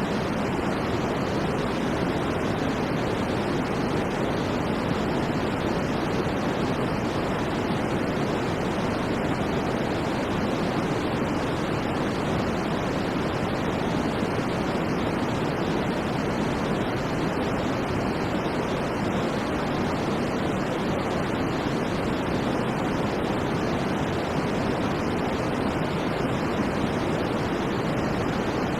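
Steady synthetic white noise, an even rushing hiss that never changes in level or character, weighted toward the lower middle of the range.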